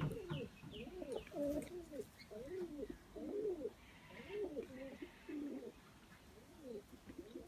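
A pigeon cooing: a long run of short, soft coos, each rising and falling in pitch, repeated about every half second.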